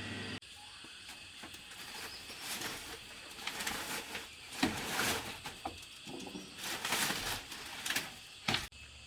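Irregular bursts of rustling and brushing, like handling leafy plants or foliage, with a short sharp knock or snap near the end.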